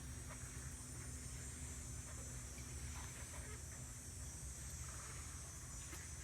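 Outdoor summer ambience: a steady high-pitched insect chorus over a low rumble, with a faint steady hum that stops about two-thirds of the way in. A few faint short sounds come and go.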